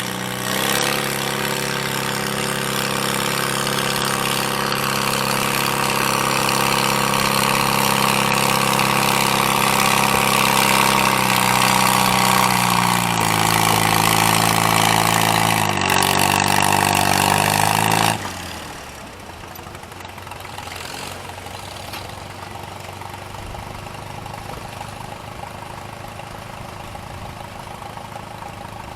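Gas farm tractor engine running at full throttle as it pulls a weight-transfer sled. Its pitch drops as the engine lugs down under the growing load, and it shuts off abruptly after about 18 seconds. A quieter engine idles after that.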